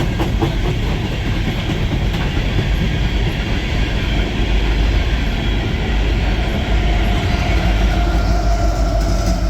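Empty coal hopper cars of a freight train rolling past: a loud, steady rumble of steel wheels on rail, with a thin ringing tone coming in about seven seconds in.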